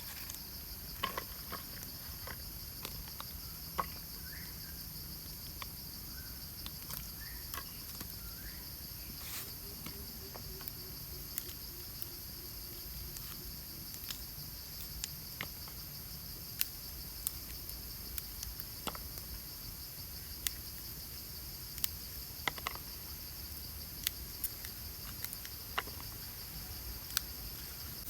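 Insects chirring steadily in a high, fine pulsing drone, with scattered sharp clicks and ticks throughout.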